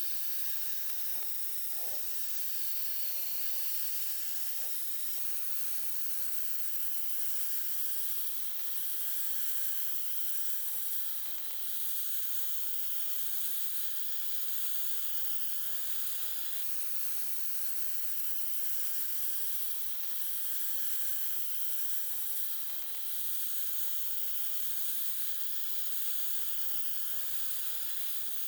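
Steady spraying hiss of pressurised air or spray, with a few faint knocks in the first seconds, cutting off abruptly at the end.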